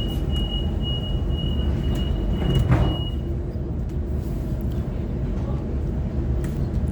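Door-closing warning on a Sydney Trains Waratah EMU: a rapid series of high beeps that stops about three seconds in, with a thud just before it ends as the doors shut. The train's low steady rumble runs underneath.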